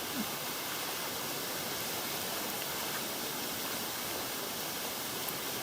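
Steady rushing of falling water from a waterfall, an even unbroken hiss with no single events in it.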